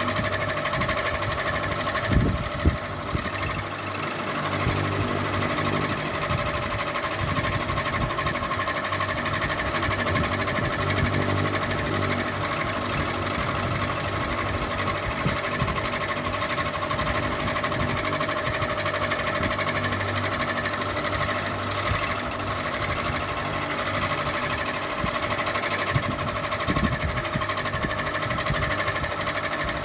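Ceiling fan running: a steady motor hum with a fast mechanical rattle under it, and a few louder knocks about two seconds in and again near the end.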